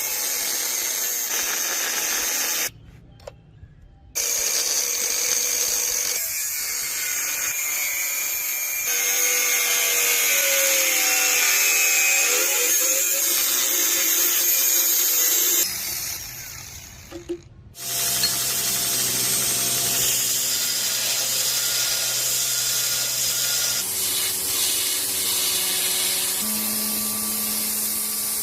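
Electric power tools running on metal in a series of short clips that change abruptly, with a brief drop in level about three seconds in and again past the middle; the later clips carry a steady motor hum.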